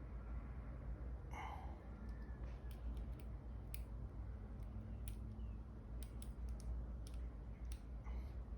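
Irregular small sharp clicks, about one or two a second, of metal tools and fingers working on a G-Shock watch case and band, over a low steady hum.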